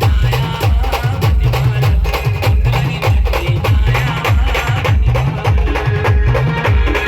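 Loud band-party music: a heavy bass line in a repeating pattern, steady drum and percussion strokes, and a melodic lead over the top.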